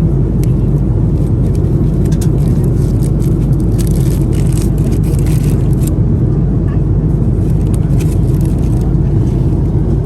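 Steady cabin noise of an Airbus A330-200 in cruise: a constant low rumble of airflow and engines. A few light clicks and rattles come between about four and six seconds in.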